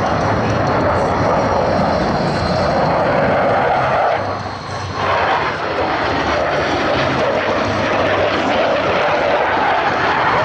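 Jet noise from Blue Angels F/A-18 Hornets flying their display, their twin jet engines making a loud, steady noise. It dips briefly about four and a half seconds in, then comes back at full strength.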